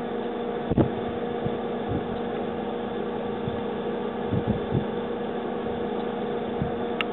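Vehicle running, heard from inside the cab: a steady engine hum with road noise and a few low thumps, one about a second in and a cluster past the middle.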